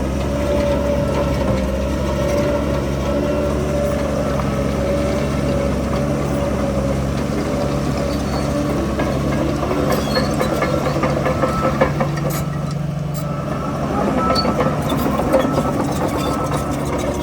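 Heavy earthmoving machine's diesel engine running steadily, with scattered clanks and rattles in the second half.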